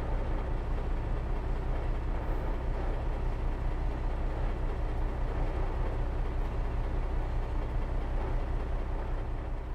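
CAT toy bulldozer's lights-and-sounds feature playing a recorded diesel engine rumble, steady and unbroken.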